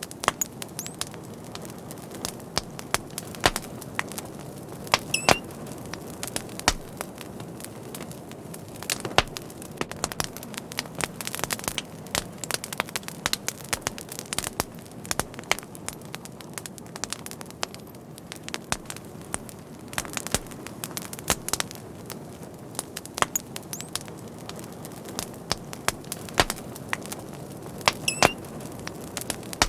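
A fire crackling: irregular sharp pops and snaps, some loud, over a steady low rush of burning. A couple of the pops are followed by a brief high whistle.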